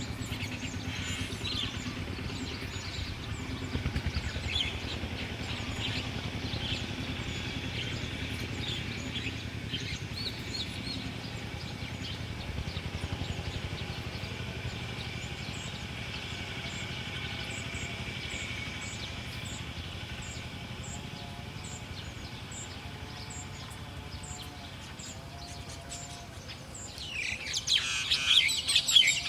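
Small wild birds chirping over a steady low hum, with a louder flurry of chirps near the end.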